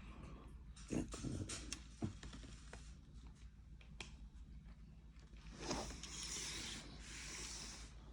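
A few sharp clicks and knocks from objects being handled, then two stretches of hissing rustle about six and seven and a half seconds in.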